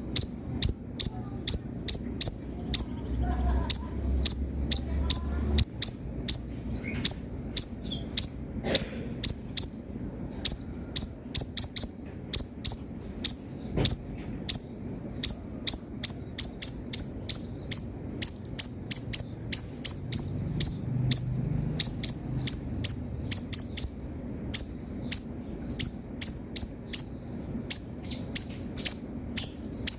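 Kolibri ninja sunbird singing vigorously: rapid, high, sharp chirps delivered in quick runs of several at a time, repeated without a break.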